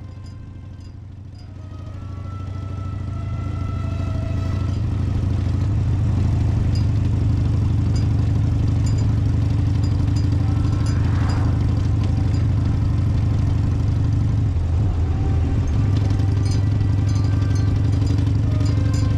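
Harley-Davidson Forty-Eight's air-cooled 1200 cc V-twin running steadily, growing louder over the first few seconds, with a faint regular ticking above the engine note.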